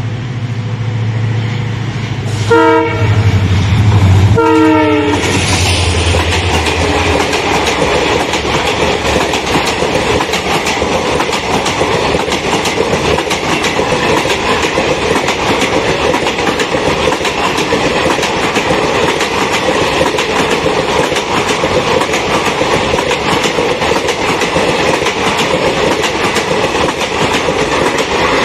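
Express train running through at speed. A diesel locomotive's low engine drone grows as it approaches, with two short horn blasts a couple of seconds in. Then the steady rolling rumble and clickety-clack of the ICF coaches' wheels over the rail joints as the long rake passes.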